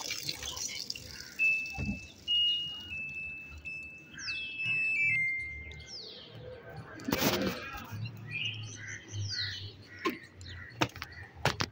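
Birds chirping in short falling calls, with a run of steady high notes stepping in pitch in the first half and a few sharp clicks near the end.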